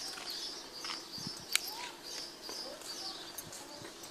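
Small birds chirping over and over, with a few lower gliding calls, and a single sharp click about a second and a half in.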